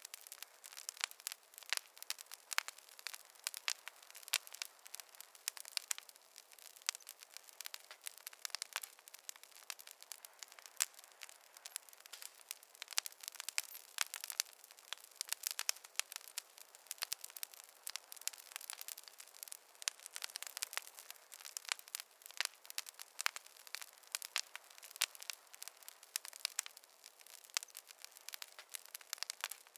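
Wood campfire crackling: dense, irregular sharp pops and snaps over a soft hiss.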